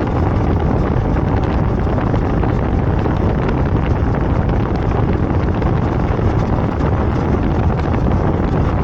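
Steady wind rush over the microphone of a moving Royal Enfield Himalayan motorcycle, with the bike's engine running beneath it.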